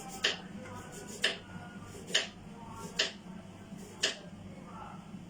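Five sharp clicks or knocks, about one a second, over a steady low hum.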